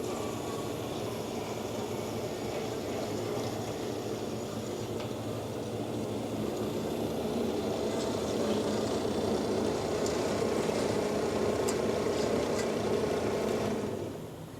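DoAll C-916M horizontal metal-cutting band saw running: a steady motor hum and blade noise, growing a little louder partway through and dropping off near the end.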